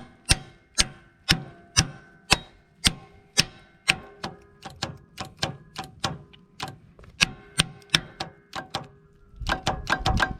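Sharp metallic clicks, about two a second, from efforts to turn over a Kohler 15 hp engine on a John Deere LX255 that has sat for years and is nearly seized. Near the end the clicks quicken into a rapid clatter.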